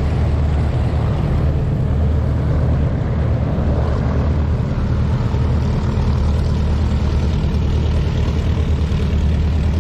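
Propeller airplane's piston engine running steadily, a constant low drone that neither rises nor falls.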